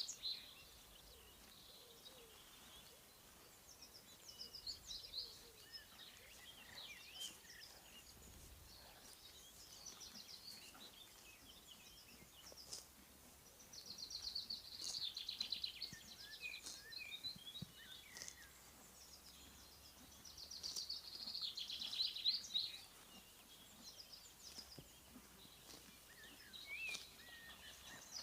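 Several songbirds singing in spring countryside: many short chirps and whistles, with two louder rapid trilled phrases, one about halfway through and another a few seconds later.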